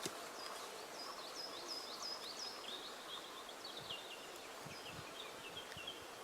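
A small songbird singing a long run of quick, repeated chirping notes. The notes are high at first and step lower about halfway through. Under them is a steady outdoor hiss.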